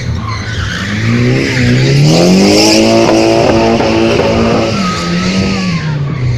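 Drift car engine revving up about a second in, held at high revs for a couple of seconds, then dropping back, with tyres squealing and skidding under it.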